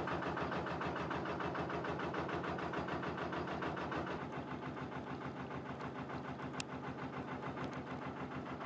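Narrowboat engine running steadily at low revs with an even, rapid pulsing beat, easing off slightly about four seconds in.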